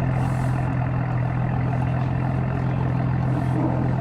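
A vehicle engine idling steadily: an even, low hum that holds the same pitch and level throughout.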